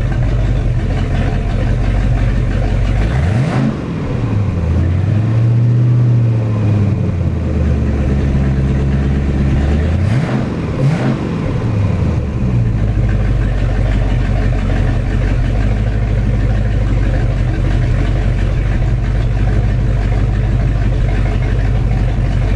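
Rebuilt 7.4-litre (454) Mercruiser big-block V8 marine inboard running on a test run: idling steadily, then revved up and held for several seconds about a third of the way in, blipped once more, and settling back to a steady idle for the rest.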